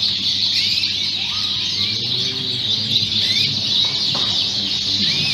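Chorus of many Fife canaries singing at once: a dense, steady mass of high twittering and chirps with no break.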